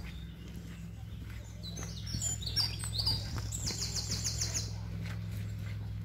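A songbird singing one phrase of high, varied notes that ends in a fast trill, starting about a second and a half in. Soft footsteps on a woodland path sound underneath.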